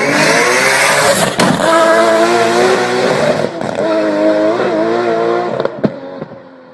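Car engine revving hard, its pitch climbing over the first second and then held high and wavering. A sharp crack cuts through about a second and a half in, and another near the end.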